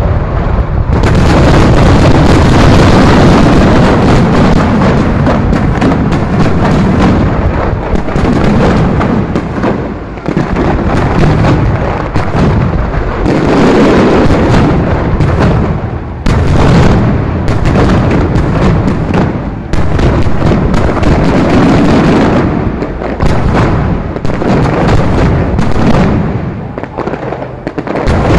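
Fireworks display: many bangs and crackles in rapid succession, with a few short lulls between volleys.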